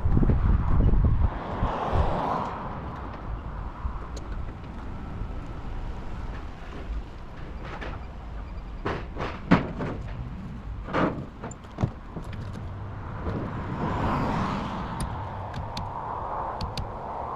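Scania 770S truck's 16-litre V8 running with a steady low rumble, louder for the first second. Several sharp knocks come in a cluster midway through.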